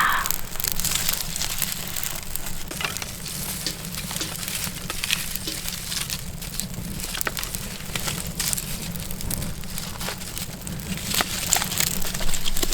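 Firewood burning in a homemade stove built from chimney-pipe fittings, crackling and popping in quick irregular snaps over a steady low rumble.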